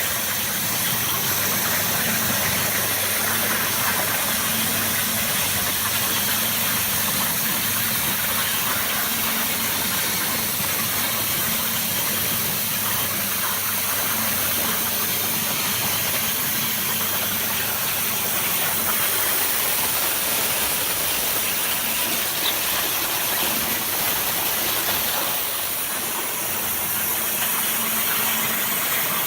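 Abrasive waterjet cutting machine running: a steady hiss from the high-pressure jet, over a constant hum from the machine.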